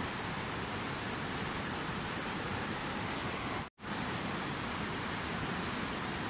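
Steady rushing water, an even hiss with no separate splashes or drops, broken by a sudden split-second gap of silence a little past halfway.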